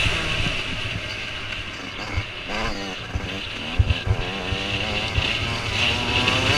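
Motocross bikes revving hard, their engine pitch swinging up and down as they race by. A few dull thumps come about four seconds in.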